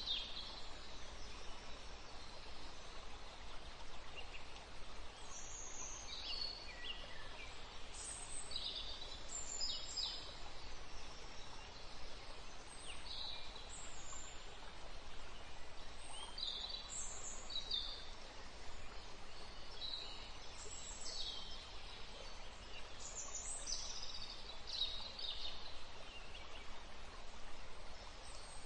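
Short high-pitched bird chirps scattered every second or so over a steady background hiss.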